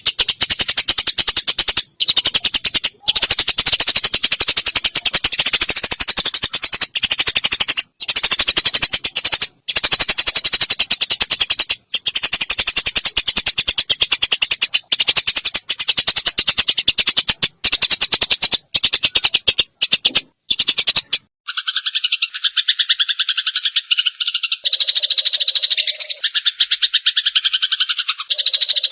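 Sparrows' harsh fighting chatter: a very fast, dense rattling stream of notes, loud and broken by brief pauses. About three quarters of the way through it gives way to a run of clearer, more tonal chirps.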